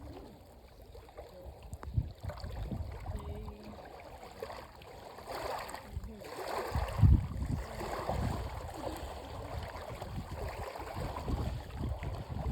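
Wind rumbling on the phone's microphone over water lapping at the shore, with a loud low bump about seven seconds in.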